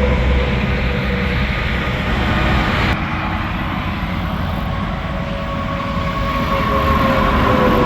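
Interstate highway traffic: semi trucks passing at speed, a continuous rush of tyre and engine noise with tyre whines that drop slowly in pitch as they go by, and a sharp change about three seconds in as one vehicle passes.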